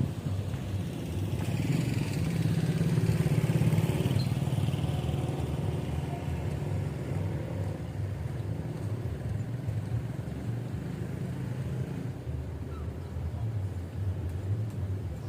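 Motorcycle engine running on the move, getting louder for a few seconds about two seconds in and then running steadily.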